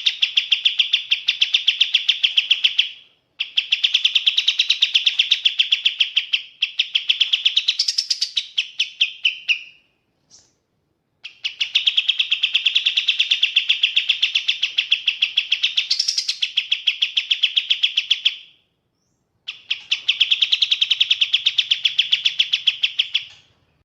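Kapas tembak songbird singing: long, fast trills of evenly repeated high notes, in bouts of several seconds broken by short pauses of about a second.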